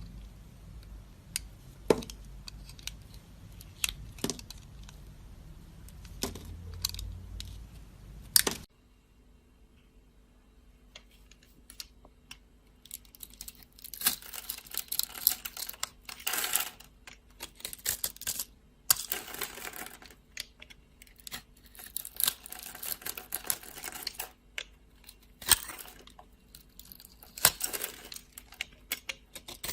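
Knife cutting soap. First come scattered sharp clicks and taps. After a sudden change about eight seconds in, there are runs of crunchy, crackling scraping strokes, each a second or two long.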